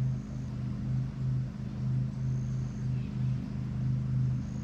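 A steady low-pitched drone with a slow, regular throb.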